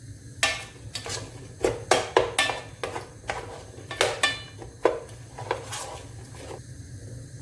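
A utensil knocking and scraping against a metal cooking pan while chopped onion, celery and garlic are stirred to sauté: about fifteen irregular clinks, each with a short metallic ring, over a steady low hum.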